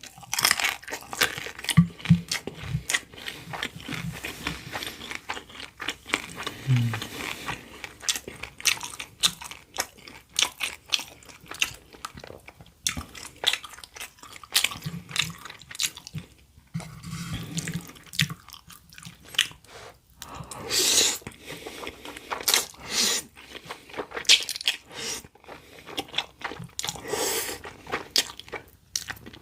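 Close-miked eating of dumplings and stir-fried udon: wet chewing and mouth smacks, with irregular clicks and a few louder noisy bursts.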